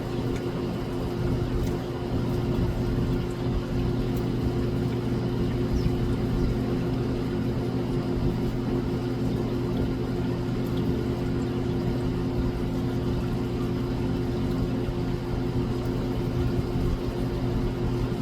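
Steady, unchanging mechanical hum of a running machine, with a few faint ticks over it.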